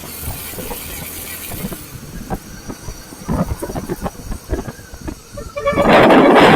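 Wind buffeting on the microphone of a moving motorcycle, then, about five and a half seconds in, a loud steady horn blast over a rushing roar.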